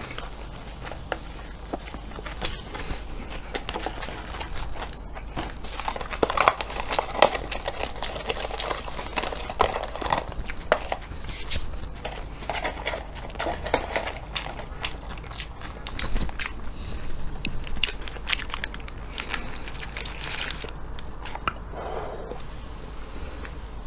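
A person chewing food with many small wet mouth clicks and smacks, along with the crinkle of paper wrapping and a cardboard food box being handled.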